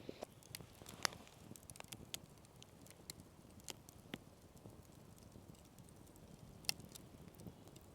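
Sparse, irregular sharp crackles and ticks over a faint background, with two louder pops, one about a second in and one near the end.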